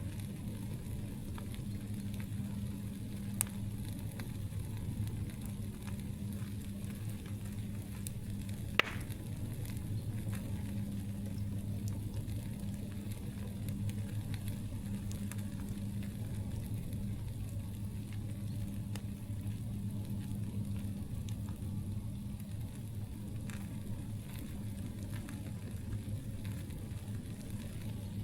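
Campfire burning with steady soft crackling and scattered sharp clicks, and a louder single pop about nine seconds in.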